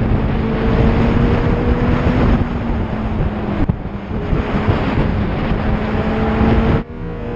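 Loud rushing wind and vehicle noise with a steady low drone underneath. It cuts off abruptly near the end.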